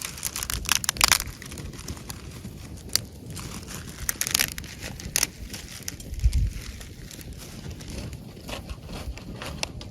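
Wood campfire burning in a fire stand, crackling and popping irregularly, with dense clusters of crackles around the first second and again about four seconds in. A low thump comes about six seconds in.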